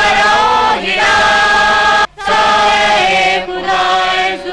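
A solo voice singing or chanting in long, held melodic phrases, with a short break about two seconds in.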